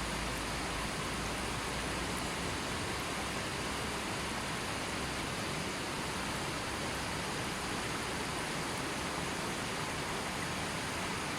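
River water flowing and rushing over rocks, a steady even hiss of running water with no changes.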